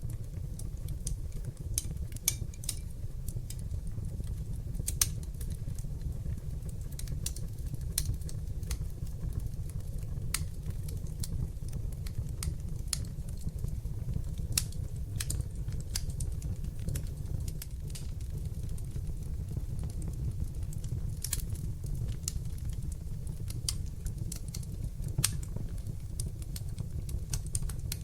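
Wood fire burning in an open fireplace: a steady low rumble from the flames with frequent, irregular sharp crackles and pops, a few of them louder than the rest.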